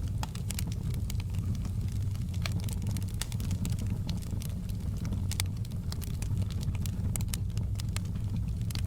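Wood fire crackling in a fireplace: irregular sharp pops and snaps from the burning logs over a steady low rumble.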